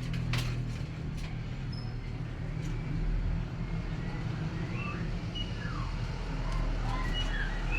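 Steady low engine hum, with short bird chirps in the second half.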